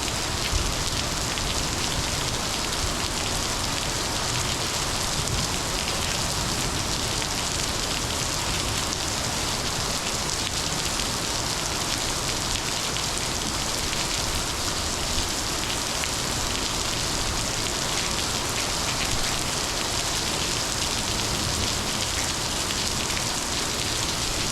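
Steady heavy rain from a monsoon downpour, a dense even hiss of drops striking surfaces, with scattered individual drop ticks.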